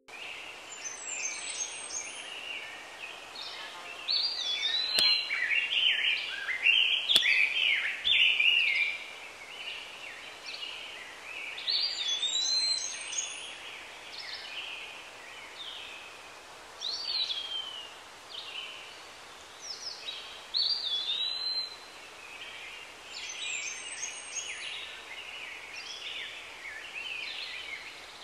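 Songbirds singing outdoors: short chirped phrases with whistled slurs, coming every few seconds and sometimes overlapping, over a faint steady background hiss.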